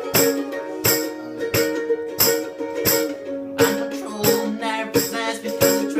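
Live band music with no lyrics sung: held chords over a steady beat of about one and a half strokes a second, and a wavering melodic line that comes in about halfway through.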